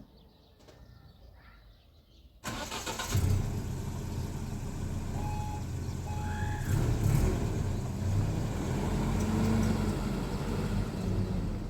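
A car engine starts about two seconds in and then runs steadily at idle. Two short beeps sound midway.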